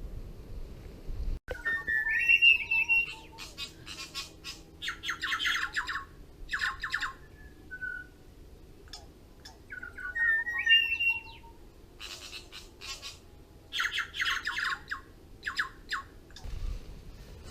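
Birds calling in repeated bouts: clear whistled notes that step upward in pitch, mixed with harsh squawks.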